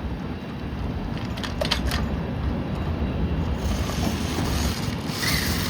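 Steady low rumble of city street traffic, with a few light clicks about a second and a half in and a hiss building over the last two seconds.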